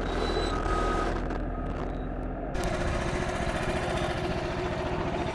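Frontier OS31 sawmill's engine running steadily. About two and a half seconds in, the sound changes suddenly to a brighter, fuller engine note with a different steady tone.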